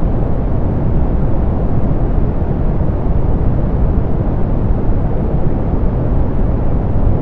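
Steady soft pink noise: an even, low-weighted rushing hiss with the treble rolled off, unchanging throughout.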